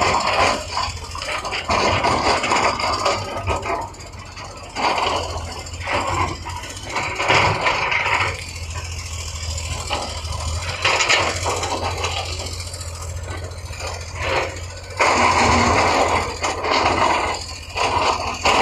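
Heavy diesel construction machinery running, with a steady low engine hum under irregular bursts of clanking and scraping.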